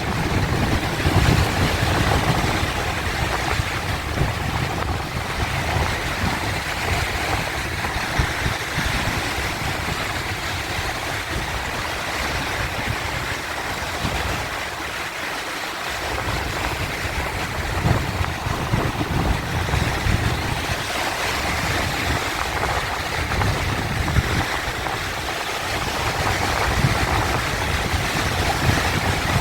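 Sea waves surging and washing without pause: a continuous rushing surf with a low rumble that swells and eases every few seconds.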